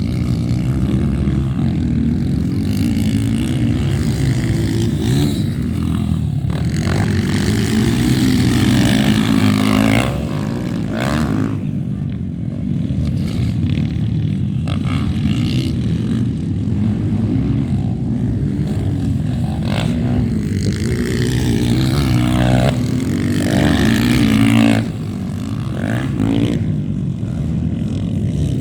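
Motocross dirt bike engines running and revving, the pitch climbing as they accelerate. The sound swells twice and drops off sharply, about ten seconds in and again near twenty-five seconds.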